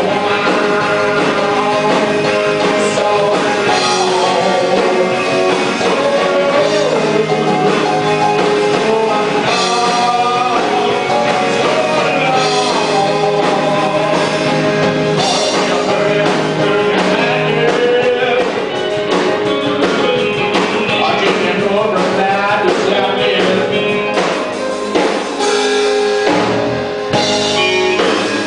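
Rock band playing, with a singer over electric guitar and drum kit; the bass drops out briefly near the end.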